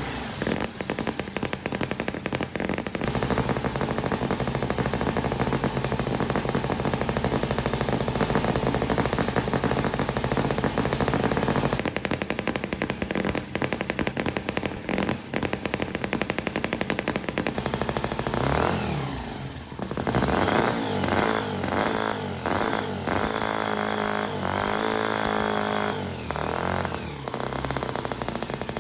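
CISON FG-VT9 9cc miniature V-twin engine running with a rapid, even popping exhaust beat. It is revved up and down in the second half.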